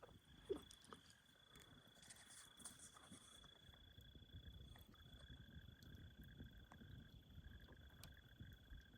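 Near silence of a night outdoors: a faint, steady, high-pitched insect trill, joined about halfway by a second, lower trill, with a few faint clicks.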